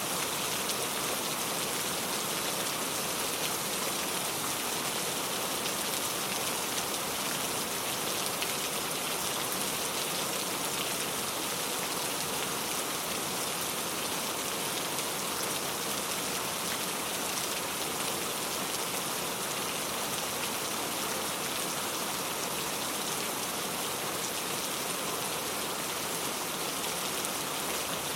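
Steady rain falling, an even, unbroken hiss of many drops with no change in intensity.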